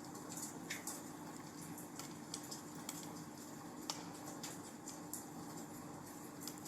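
Wood fire burning in a fireplace, crackling with irregular sharp pops over a steady soft hiss; the sharpest pop comes about four seconds in.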